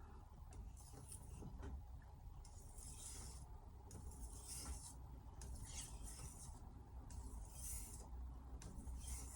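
Carbon-steel kitchen knife blade stroked across a sharpening surface by hand, a short scraping hiss on each pass, repeated about every second or so, over a steady low hum.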